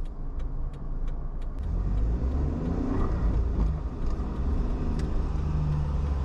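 A car driving, with steady engine and road rumble heard from inside the cabin and a scatter of faint clicks.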